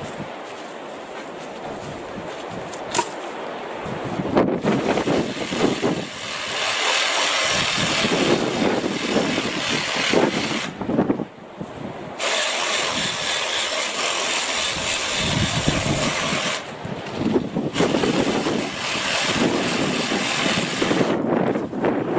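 Battery-powered saw running in three long bursts with sharp starts and stops and short pauses between them, as it cuts garden tree branches.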